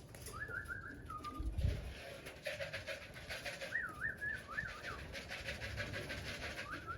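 Racing pigeons at the loft. A warbling, zigzagging call comes twice, about half a second in and again around four seconds in, and a rapid fluttering rattle runs through the middle.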